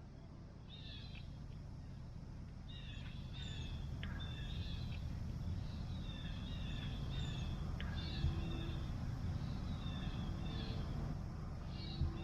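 Birds calling outdoors: many short, repeated high calls over a steady low rumble, with a soft bump about eight seconds in and again near the end.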